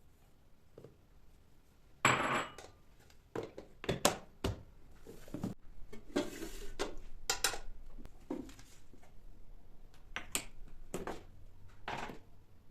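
Household items being handled and set down: a run of separate clinks and knocks, with a short noisy scrape about two seconds in.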